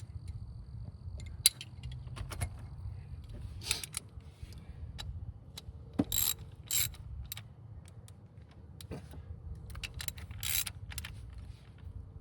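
Ratchet wrench clicking in short, irregular runs while tightening the hold-down bolt of an ignition coil.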